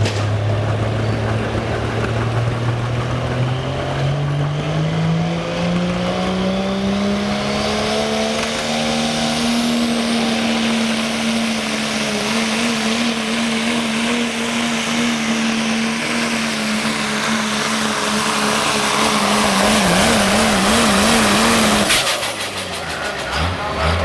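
Pro stock diesel 4x4 truck's engine under full load on a pulling run. The revs climb steadily over the first ten seconds, hold high over a loud hiss, waver near the end, then drop off sharply about 22 seconds in.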